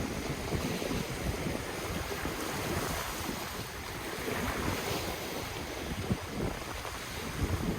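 Ocean surf running steadily, with wind buffeting the microphone.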